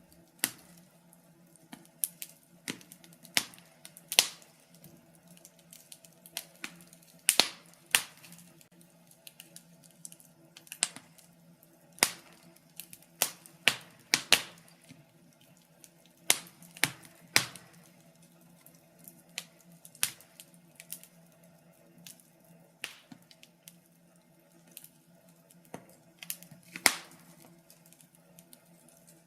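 Wood fire burning in a fireplace, crackling with irregular sharp pops and snaps, a few every couple of seconds.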